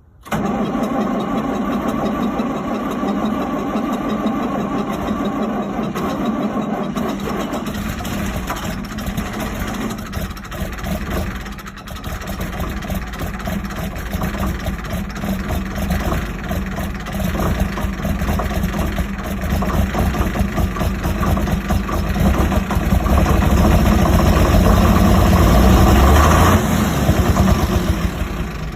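Tractor engine starting suddenly and running steadily, growing louder toward the end before dying away.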